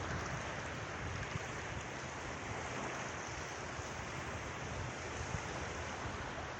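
Steady wash of sea waves, an even rushing noise with no distinct breaks.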